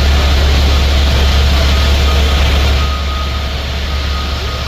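Garbage truck heard from inside its cab while driving: a steady low rumble with road and cab noise. A faint, high, intermittent beep comes and goes in the second half.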